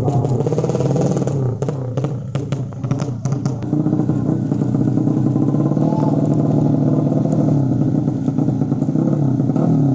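Drag-race underbone motorcycle engines running at high revs with a steady, held note. Sharp cracks and pops come in quick succession during the first three seconds or so.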